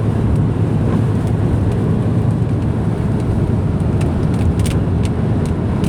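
Steady road and engine noise inside a moving car's cabin, a low, even rumble with a few faint ticks.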